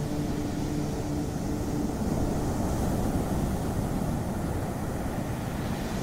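Ocean waves washing ashore, one surge swelling to its loudest a couple of seconds in. A low steady hum under the surf fades out in the first second or two.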